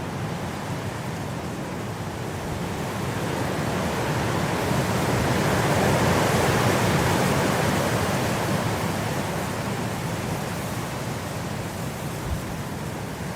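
Blizzard wind blowing, rising into a stronger gust about halfway through and easing off again.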